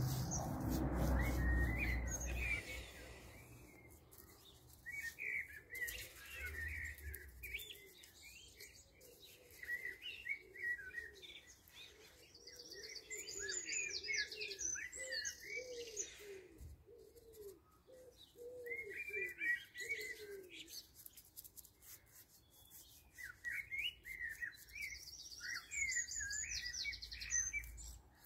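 Songbirds singing: repeated bursts of short chirps, with a high, fast trill twice.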